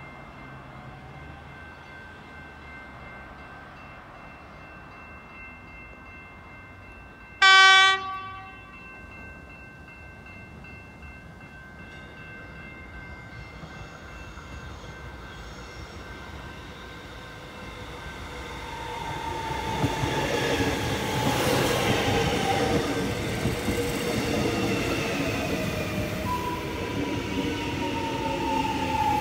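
Melbourne Metro electric suburban train: one short, loud horn blast about a quarter of the way in. Then the train's running noise grows steadily louder as it approaches and comes alongside the platform. High whining tones slowly fall in pitch in the second half as it slows.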